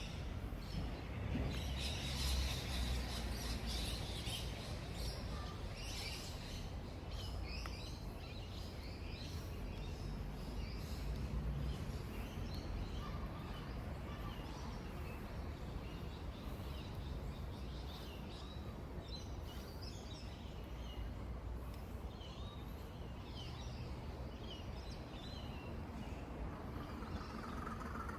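Birds chirping and calling in many short, scattered notes over a steady, low outdoor background rumble, with a louder, lower call near the end.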